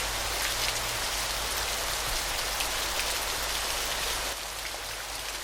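Waterfall: a steady rush of falling water with dense, fine splashing, which drops a little in level about four seconds in.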